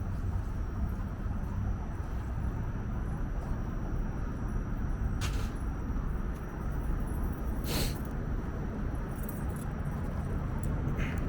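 Steady low rumble of streetcars and road traffic at a streetcar loop, with brief sharp hissing sounds about five and eight seconds in and again near the end.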